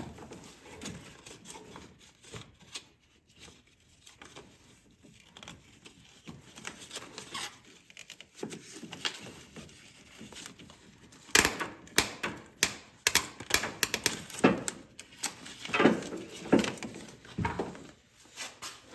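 Hand work on a vehicle engine: scattered clicks and knocks of tools and parts being handled, sparse at first and much busier and louder in the second half.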